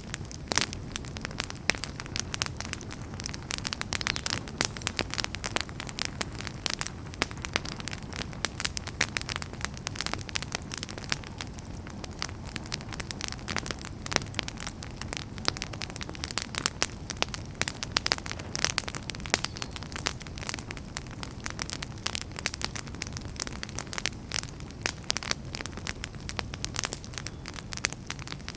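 Wood fire burning, with frequent irregular sharp crackles and pops over a steady low rumble and hiss.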